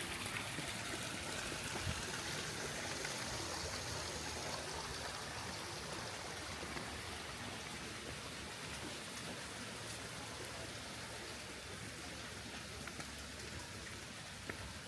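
Running water, such as a stream, makes a steady rush that slowly grows a little quieter.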